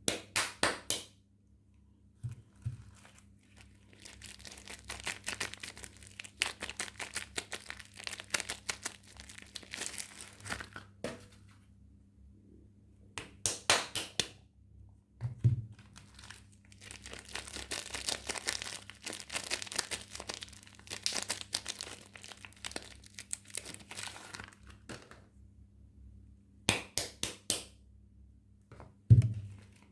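Soap packaging crinkling and tearing in bursts of dense crackles as it is unwrapped, with two soft low thuds, one about halfway through and a louder one near the end.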